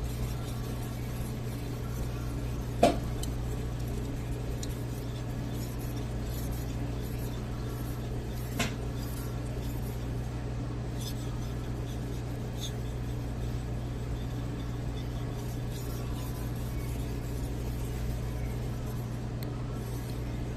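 Steady low hum with two sharp clicks about six seconds apart, the first louder, and a few faint ticks.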